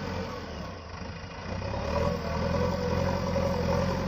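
Tractor engine running steadily, dropping away briefly about a second in and picking up again.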